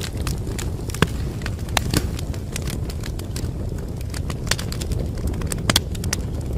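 Wood fire crackling in a fireplace: a steady low rumble of flames with irregular sharp pops and snaps, a few louder ones about a second in, around two seconds in and near the end.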